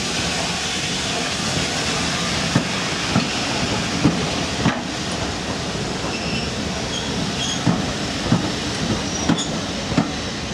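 Railway passenger coaches rolling slowly past over a steady rumble. Their steel wheels click over a rail joint in pairs, each bogie's two axles a fraction of a second apart, four pairs in all.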